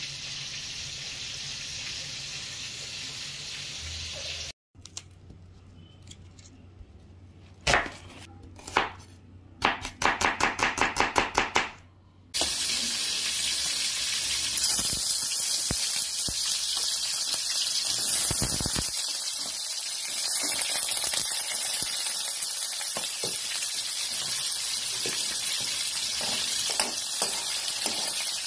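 A quick run of knife chops on a cutting board, about five a second. About twelve seconds in, carrot slices drop into hot cooking oil in a wok and sizzle steadily while being stirred with a spoon.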